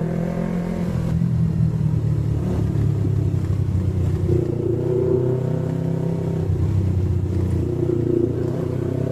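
Yamaha MT-25's 250 cc parallel-twin engine running at low road speed, its note rising and falling gently with the throttle.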